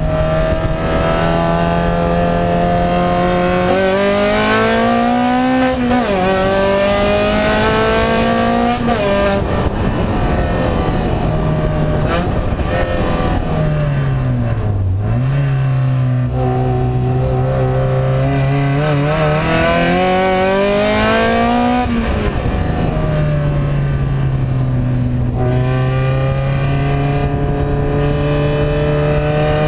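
Vehicle engine with an open, unsilenced exhaust running loudly as it is driven, the revs climbing and dropping several times, with the lowest dip about fifteen seconds in.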